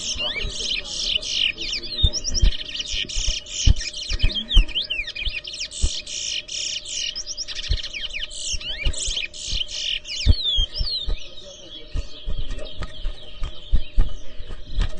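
Towa-towa seed finch singing a long run of rapid whistled and trilled notes, sweeping up and down in pitch, with a short pause about eleven seconds in. Scattered low thumps are heard alongside.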